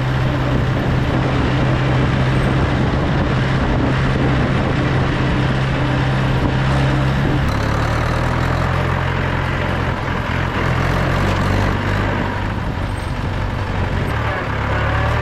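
Mahindra 475 DI tractor's four-cylinder 2730 cc diesel engine running steadily. Its note drops to a lower pitch about halfway through.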